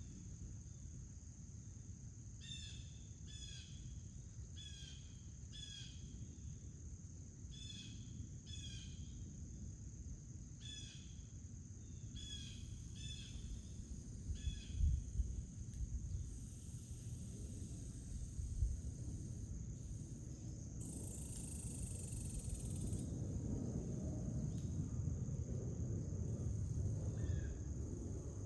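Outdoor backyard ambience: a steady high insect trill runs throughout while a bird repeats short chirps, one or two a second, for about the first half, stopping and returning briefly near the end. A low rumble sits underneath, and a brief hiss comes about two thirds of the way through.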